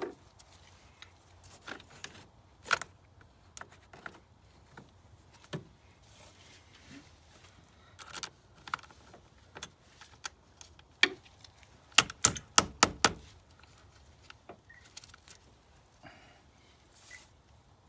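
Small metal parts being handled during battery terminal work: scattered clicks and clinks, with a quick run of about five sharp clicks a little after twelve seconds in.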